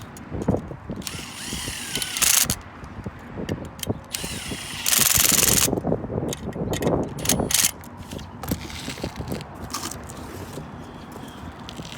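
Hand work on a condenser fan motor assembly: irregular knocking and rubbing of metal parts, with two short loud bursts of noise, the first about a second in and the second about five seconds in.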